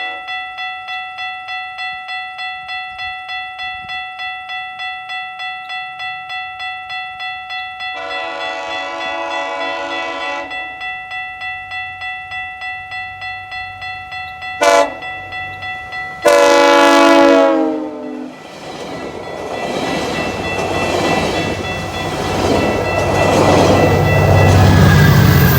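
A crossing warning bell pulses about twice a second while an approaching EMD F59PH diesel locomotive sounds its horn: a long blast, a short blast, then another long blast, part of the grade crossing signal. The locomotive and its train then pass, with engine and wheel rumble building to the loudest point near the end.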